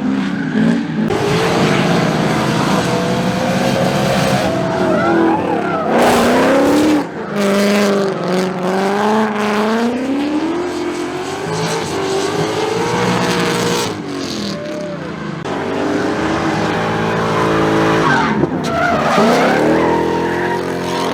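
A drift car sliding: its engine revs rise and fall repeatedly under a continuous tire squeal.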